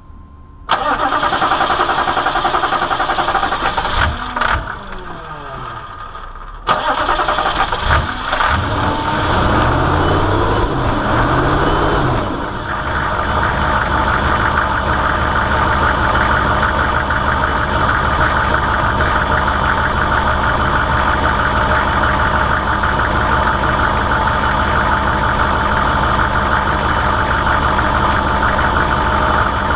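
A 1998 vehicle's engine starting suddenly, running a few seconds, then dropping off and being started again, with a few rises and falls in revs before it settles into a steady idle. This is the engine that the shop says has an odd noise in its lower part and low power.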